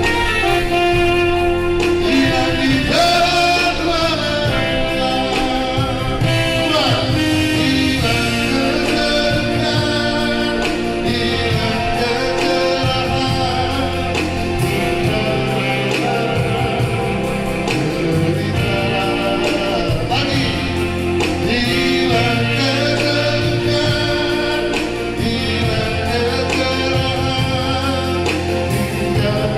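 A song performed with a lead voice singing a melody over instrumental accompaniment, with a steady bass line underneath.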